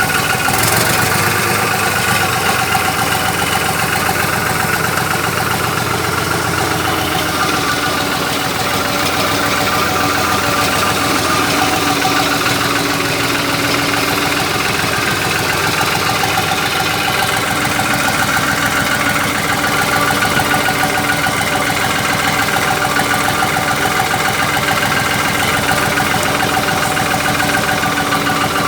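Tractor engine running steadily at a constant speed, driving a mounted 600-litre boom sprayer.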